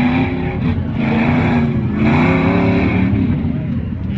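Off-road competition trucks' engines revving in repeated surges of about a second each over a continuous low engine rumble.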